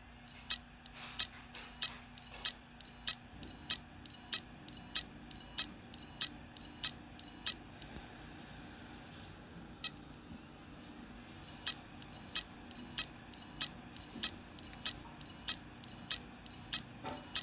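Seagate Momentus 7200.4 laptop hard drive clicking sharply and repeatedly, about one click every 0.6 seconds, over a steady low hum. Around the middle the clicks stop for about four seconds, broken by a single click, then start again.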